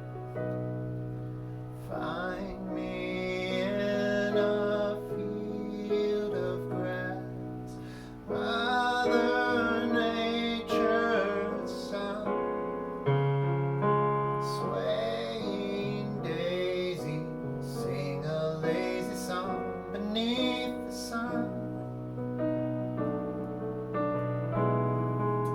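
A piano playing sustained chords while a voice sings a wordless, wavering melody over it.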